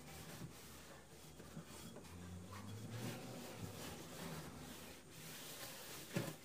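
Faint rubbing and handling sounds in a kitchen, with one sharp knock near the end.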